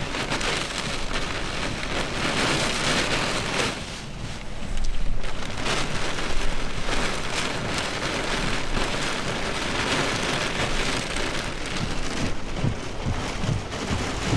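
Heavy wind-driven rain beating on a pickup truck, heard from inside the cab, with storm gusts buffeting the truck. The rain briefly eases about four seconds in, then comes back harder.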